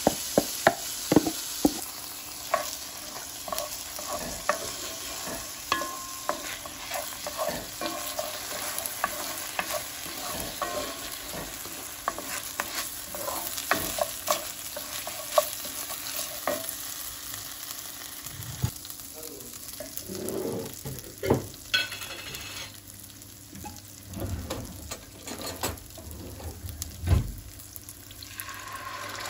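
A kitchen utensil stirring and clicking against cookware while food sizzles. The taps come quickly for the first half; later there are fewer strokes and a few duller knocks.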